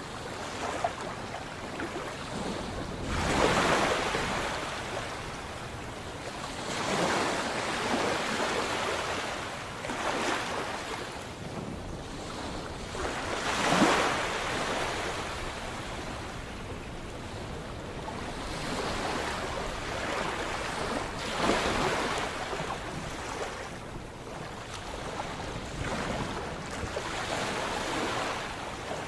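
Sea waves breaking and washing onto a shore, a surging hiss that swells and fades every few seconds, with the biggest breakers about three seconds in and near the middle.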